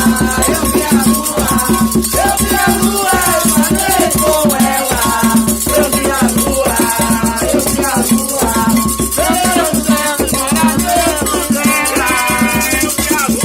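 Candomblé ritual music: voices singing a chant over steady drumming and a shaken rattle, played continuously.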